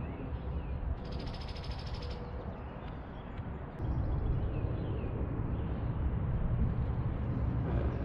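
Steady low outdoor rumble that grows louder about four seconds in. About a second in comes one buzzy, rapidly pulsed, high-pitched bird call lasting about a second.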